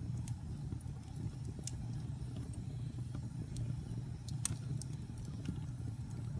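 Wood fire burning in a fireplace: a steady low rumble of flames with scattered sharp crackles and pops, the loudest pop about four and a half seconds in.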